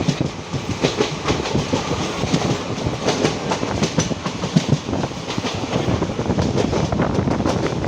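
Passenger train running at speed, heard from on board: wheels clattering continuously on the rails over a steady rumble.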